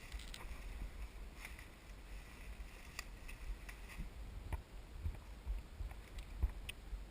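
Footsteps through forest undergrowth, a light crackle or snap every second or so, over a steady low rumble on the microphone.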